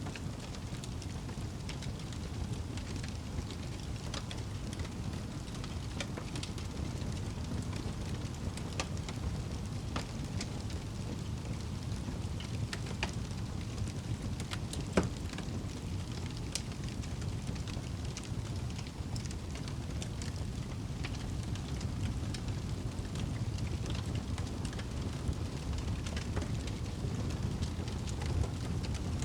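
Wood fire burning in a fireplace: a steady low rush of flames with scattered sharp crackles and pops, one louder pop about halfway through.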